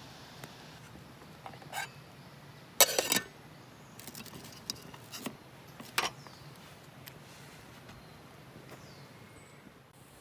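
A few short clinks and knocks of objects being handled, the loudest a quick cluster about three seconds in and another sharp one about six seconds in, over a steady low background.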